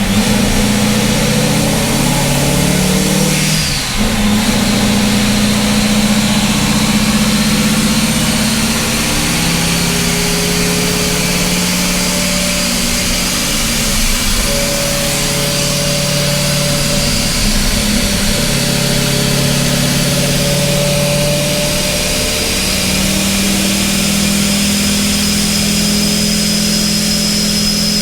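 Supercharged C6 Corvette V8 running on a chassis dyno, held at steady engine speeds that step up and down every few seconds rather than sweeping through a full pull. It is running rich, around 10.5 air-fuel ratio, with almost no ignition timing in it while the fueling is being leaned out.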